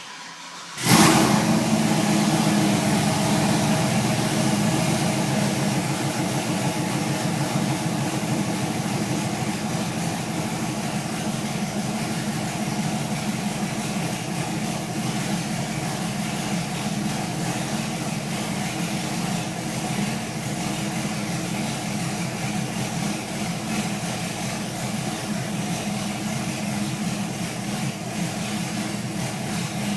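A 2004 Chevy 2500's 6.0-litre V8 is cranked briefly, catches under a second in with a loud flare, and settles into a steady idle.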